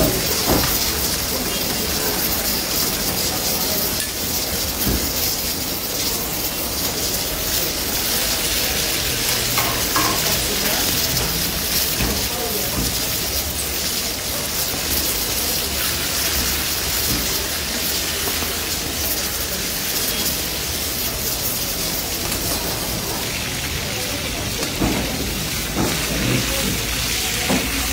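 Chicken and tomato halves sizzling hard in hot oil in a steel karahi over a gas flame: a steady, dense hiss. A metal ladle stirs and now and then knocks against the pan.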